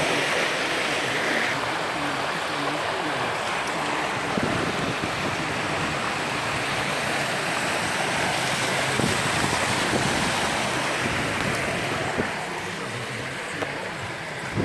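Steady rush of rainwater runoff flowing in a flooded street.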